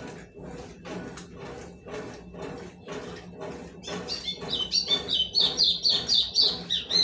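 Consul 12 kg washing machine washing a load of towels, with a regular swishing of about three strokes a second. From about four seconds in, a bird chirps rapidly and loudly over it.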